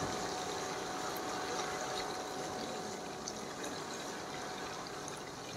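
Chicken pieces frying in hot cooking oil in a karahi: a steady sizzle with faint scattered pops.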